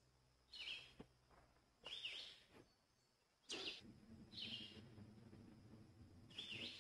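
Faint, short, high bird chirps, five of them, about one every second and a half. A faint low rumble comes in about halfway.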